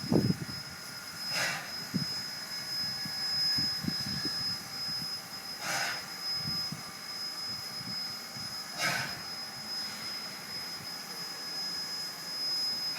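South Simcoe Railway's steam locomotive No. 136 hissing steadily, with a short chuff of steam exhaust about every three to four seconds as it works slowly.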